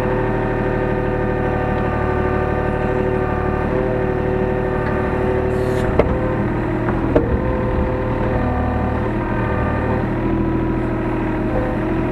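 Hyundai R35Z-9A mini excavator's diesel engine running steadily as the machine works, heard from inside the cab, its pitch dipping and rising slightly under changing load. Two sharp knocks about six and seven seconds in.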